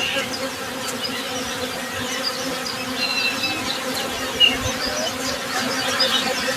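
Honey bees buzzing in a steady, even hum, with short high bird chirps and a few brief whistled notes over it, one clear chirp about four and a half seconds in.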